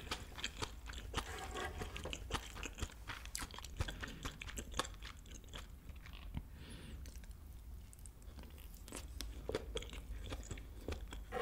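A person chewing a mouthful of kimchi fried rice close to the microphone, a dense run of small wet clicks and smacks.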